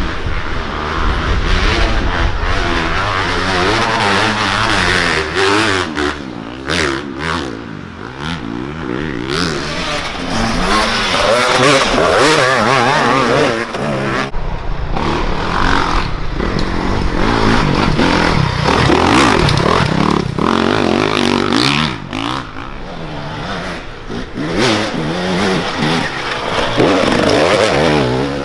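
Several dirt bikes racing at once, their engines revving up and down in overlapping rising and falling pitches as they accelerate and pass.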